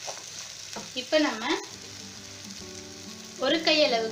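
Chana dal and sago sundal sizzling in oil in a pan as a wooden spatula stirs it. Background music with a gliding melody is loudest about a second in and again near the end.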